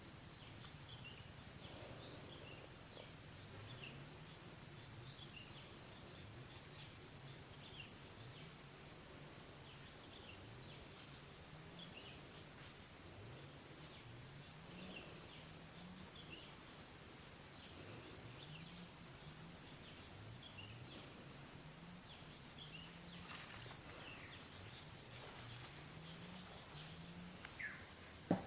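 Forest ambience: insects trilling steadily at a high pitch, with scattered short bird chirps. A low note rising in pitch repeats about once a second, and a sharp knock sounds at the very end.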